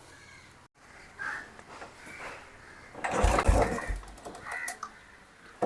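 Royal Enfield Bullet 350's single-cylinder engine being kicked over on the kickstarter with the spark plug out, turning without firing. It is being done to pump the remaining engine oil out of the drain. About three seconds in, a kick stroke gives a burst of noise with two low thumps.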